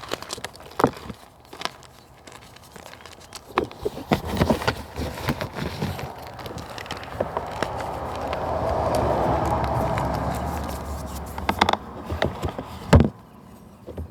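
Crackling and snapping of natural material being crushed, with scattered small cracks, a rushing swell in the middle, and two louder sharp snaps near the end.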